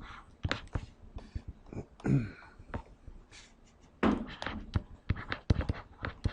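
Drawing on a classroom board: a quick irregular run of taps and scratchy strokes, with a couple of brief louder knocks or murmurs about two and four seconds in.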